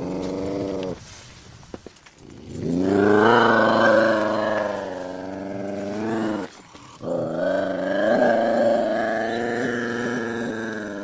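A cat giving long, drawn-out yowling calls: a short call at the start, then two long wavering calls of about four seconds each.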